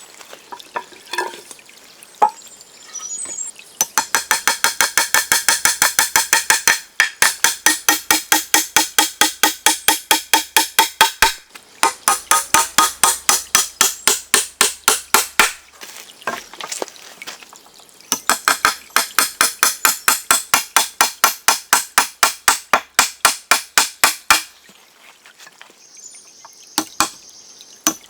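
Fast, even hammer strikes with a ringing note, about four or five a second, in runs of several seconds with short pauses between.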